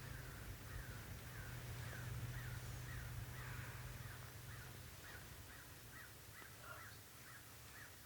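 A bird calling over and over, a long run of short arched notes about two a second, against a steady low hum that stops about five seconds in.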